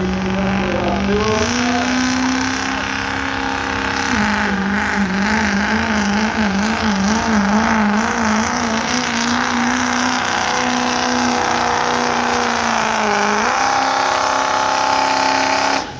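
Diesel truck engine running hard at high revs under heavy load. Its pitch sags and wavers rapidly for several seconds in the middle, then steadies and climbs again near the end.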